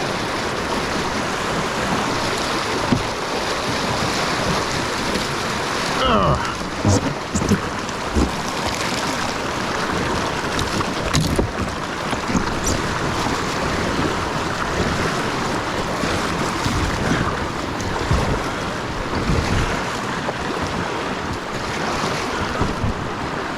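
Rushing whitewater and splashing water around a kayak, with wind buffeting the microphone. About six seconds in, a brief falling sound and a few knocks cut through the steady rush.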